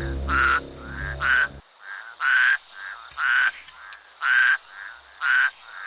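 Frog croaking, about one loud croak a second, each followed by a softer one.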